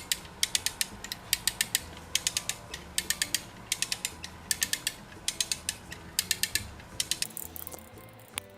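Ratchet of a two-ton come-along cranked by its lever, taking up tension on a rope tied to a leaning coconut palm: bursts of three to five sharp clicks about once a second. The cranking stops about seven seconds in.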